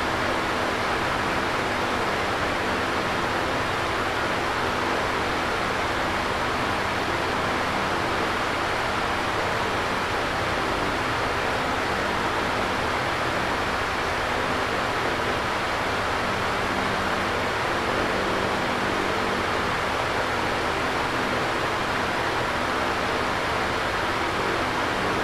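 Electric fan running steadily: an even, unbroken rush of air with a faint low hum beneath it.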